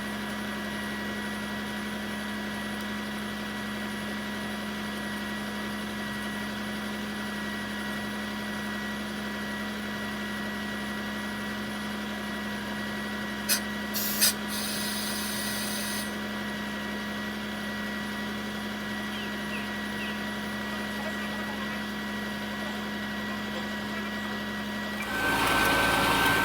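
A diesel railcar running steadily, heard from the cab with a constant engine hum, sped up to double speed so its pitch is raised. About fourteen seconds in there are a couple of sharp clicks and a short hiss, and near the end the sound grows louder and busier.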